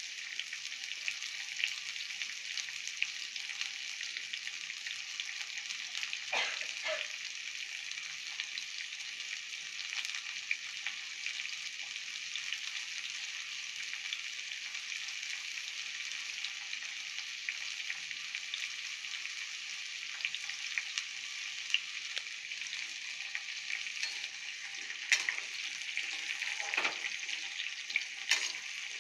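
Raw green mango wedges and cumin seeds sizzling in hot oil in a kadai: a steady frying hiss with scattered small pops. Near the end a spatula stirs the pieces around the pan.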